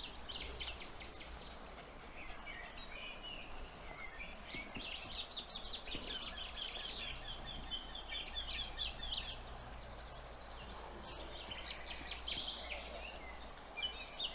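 Songbirds singing, with long runs of rapid repeated notes in the middle and again near the end, over a steady background hiss.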